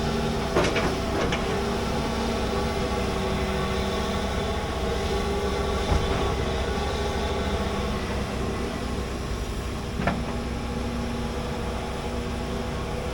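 Large hydraulic excavator's diesel engine running steadily under work, with a few sharp knocks: one about half a second in, another about six seconds in, and one about ten seconds in.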